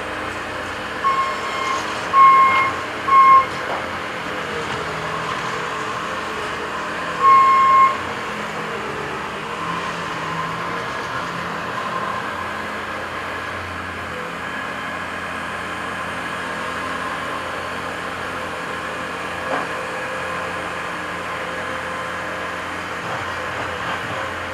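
Heavy construction machines, a mini excavator and a skid steer loading a dump truck, running steadily. A high electronic beep sounds four times at uneven spacing in the first eight seconds, two of the beeps longer than the others.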